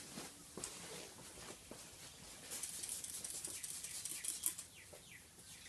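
Hand-pump spray bottle being squeezed over and over, each pull of the trigger giving a short hiss of water mist onto windscreen glass, busiest in the middle of the stretch.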